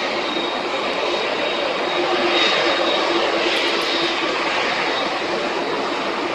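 Jet engines of a Boeing 787-8 airliner running: a loud, steady rush with a thin high whine held over it.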